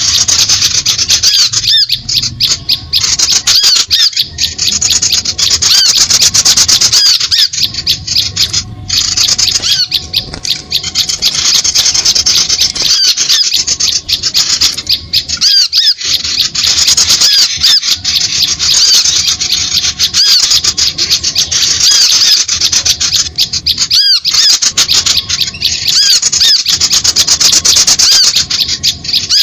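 A bird-lure recording of small birds calling: dense, rapid, high chirping that never lets up, with short rising-and-falling chirps repeating many times a second.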